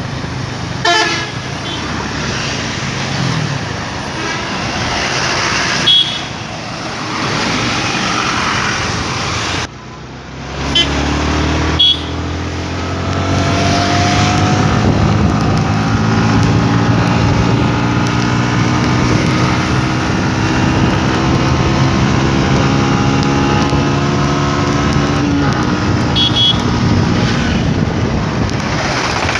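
Motorcycle engine running under way, with a steady rushing noise of air and road over it; after about twelve seconds its pitch climbs as it accelerates. Short horn beeps sound a few times.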